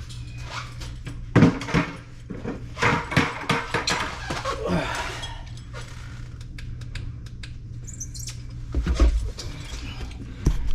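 Irregular knocks, clicks and scraping of parts and tools being handled under a kitchen sink, with loud knocks about a second and a half in and again near the end, over a steady low hum.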